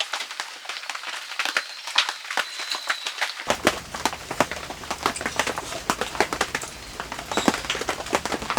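Rain pattering: a dense, irregular stream of drop taps with a low background rumble that comes in about three and a half seconds in.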